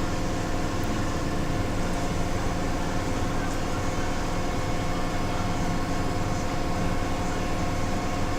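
Torrent 500 cleaning machine running steadily: a constant mechanical hum and wash noise with several steady tones, no change in pitch or level.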